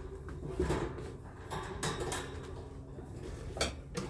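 Scattered clicks and light knocks of hands and tools working the fan's housing tabs loose during disassembly, about half a dozen sharp taps over a faint steady hum.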